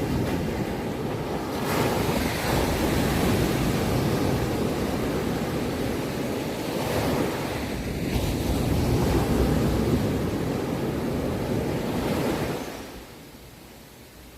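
Sea waves surging and washing over the shore in one long swell that builds, peaks and then falls away about thirteen seconds in.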